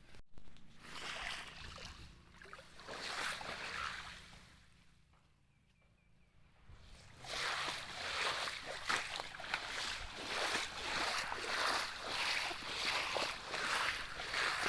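Rhythmic swishing, crunching strokes repeating about once or twice a second, with a short lull midway, then coming faster and more evenly.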